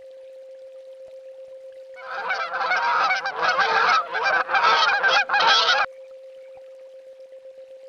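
Several swans honking in a dense, overlapping burst of calls that starts about two seconds in, lasts around four seconds and cuts off abruptly.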